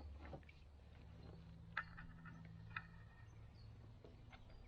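Near silence: faint background hum with two soft clicks, about a second apart, partway through.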